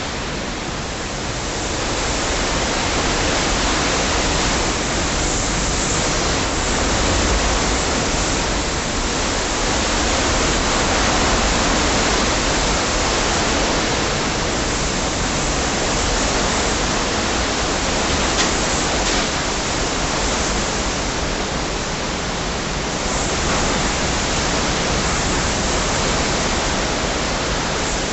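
Hurricane wind and rain, a loud steady rushing noise that swells and eases slowly in gusts, just ahead of the hurricane's eyewall.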